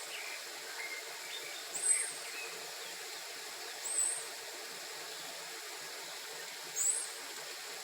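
A bird repeating a short, high-pitched chirp three times, every two to three seconds, over a steady hiss, with a few fainter, lower bird notes in the first couple of seconds.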